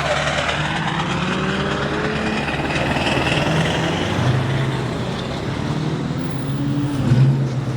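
Car engine running and revving, its pitch rising and falling, over a steady rushing noise.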